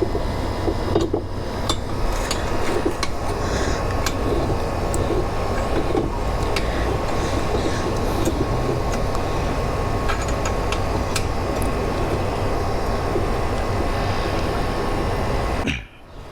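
Steady rumbling background noise with a few faint clicks from a hand tool tightening the saddlebag bracket bolt. The noise drops out suddenly near the end.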